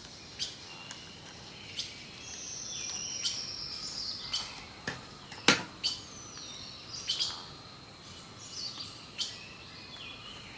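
Birds singing: short chirps and long whistled notes, some gliding slowly down, with sharp clicks scattered through and the loudest click about halfway.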